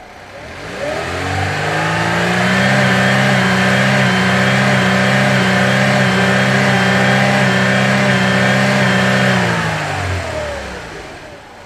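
An engine sound revs up over about two seconds, runs at a steady pitch for about seven seconds, then winds down and fades near the end.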